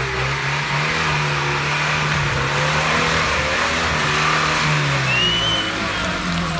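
UAZ-469 off-roader's engine revving hard and held at high revs as it drives up out of a deep mud rut, dipping briefly about five seconds in before picking up again. A short high whistle sounds once near the dip.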